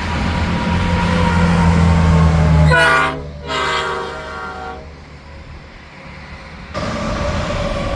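Semi-truck air horn blowing twice as a truck passes on the highway: a short blast, then a longer one of about a second and a half, both over a low engine and tyre rumble. Traffic noise comes back suddenly near the end.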